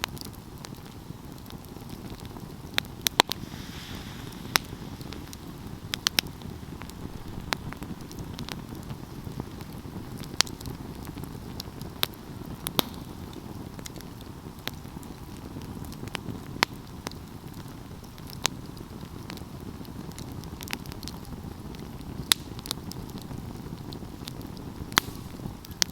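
Wood fire burning with a steady low rustle of flames and irregular sharp crackles and pops, one every second or two.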